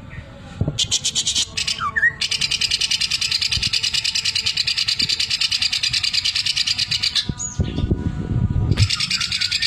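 Cucak ijo (greater green leafbird) singing. After a brief rattle and a falling whistled note, it gives a fast, even, machine-like rattle for about five seconds, the 'sewing machine' (mesin jahit) phrase prized in its song. A few low thuds follow, then the rattle starts again near the end.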